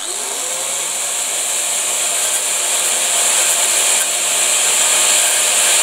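Electric grinder spinning up with a rising whine, then grinding down the protruding end of a steel bolt to bring it flush: a steady hiss that slowly grows louder.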